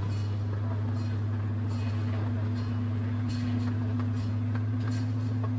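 Miniature train running along its track: a steady low engine drone with a held tone above it, and light clicks from the wheels about once a second.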